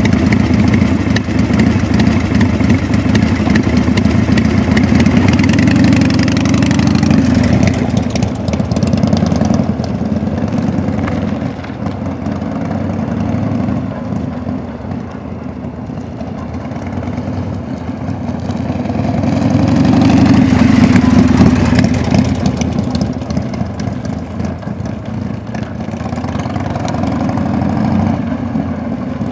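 1992 Harley-Davidson FXDB-D Dyna Daytona's air-cooled 1340 cc Evolution V-twin running. It is louder for the first several seconds, eases off toward idle, swells up again about twenty seconds in, then settles back.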